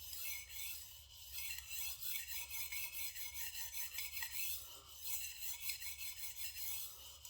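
Steel gyuto blade (Shigeki Tanaka 180mm) scraping on a sharpening stone in rapid repeated light strokes at the heel, with brief breaks about a second in and near five seconds.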